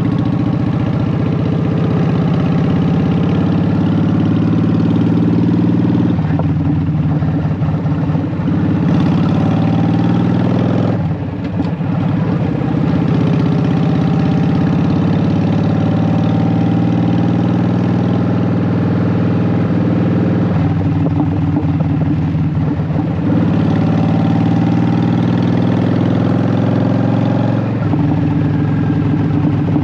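Honda Shadow VT750's V-twin engine running through Vance and Hines Short Shot exhaust pipes while riding. The engine note rises and falls several times with throttle and gear changes, with a brief drop in level about eleven seconds in.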